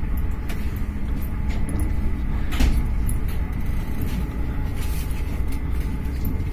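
Passenger train running, heard from inside the carriage: a steady low rumble of the wheels on the track, with scattered clicks and knocks, the loudest about two and a half seconds in.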